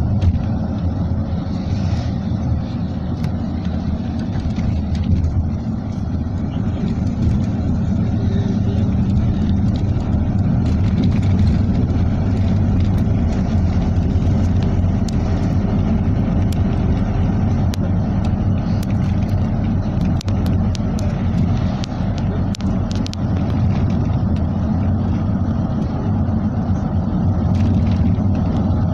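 Steady low rumble of a vehicle in motion, with a few faint scattered clicks.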